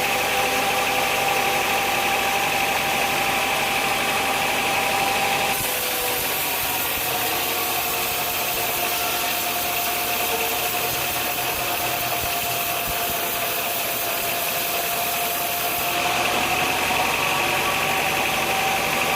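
Sawmill machinery running with a steady motor hum. About five seconds in the sound changes abruptly and the hum sits a little lower in pitch, changing back near the end.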